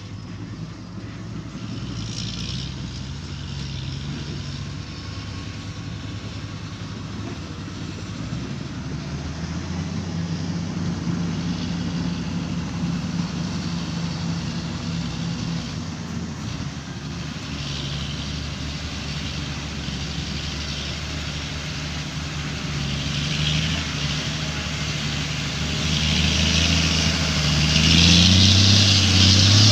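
Large diesel dump truck engine running, slowly getting louder, then revving up near the end.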